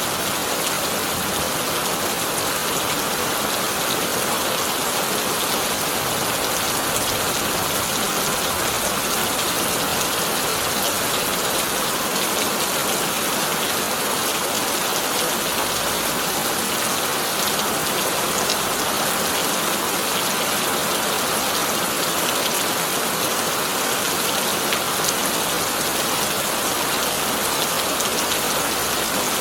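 Heavy rain falling steadily on a tin roof: a dense, even patter with scattered sharper drop ticks.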